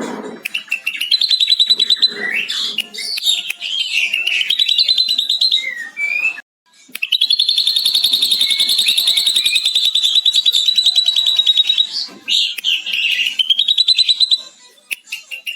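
Ashy drongo singing: varied chirps and whistled glides, then, after a brief break, one long rapid chattering trill of about five seconds, the drongo's imitation of a lovebird's long 'ngekek' chatter.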